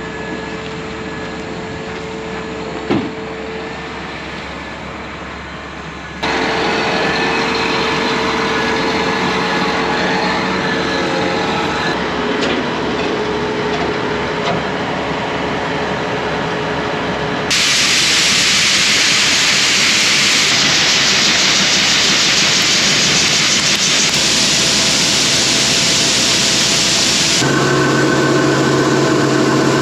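Heavy farm machinery running steadily: a loud engine and mechanical noise with a few held tones. The sound jumps abruptly about six seconds in, again around seventeen seconds when a loud hiss takes over, and once more near the end.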